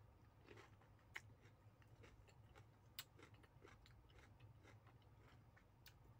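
Faint close-up chewing of a mouthful of food, with scattered soft mouth clicks over a low hum; the sharpest clicks come about a second in and again at three seconds.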